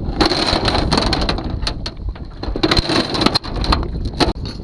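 Brush and twigs crackling and snapping in two spells of dense crunching, with a few sharper snaps later, over wind rumbling on the microphone.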